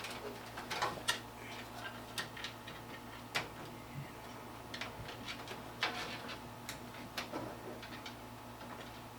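Irregular small clicks and taps of hands working cables and parts inside a computer case, over a low steady hum.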